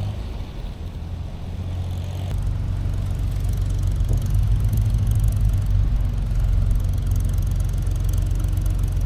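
Off-road vehicle engine running at low revs, a steady low drone that grows louder about two seconds in.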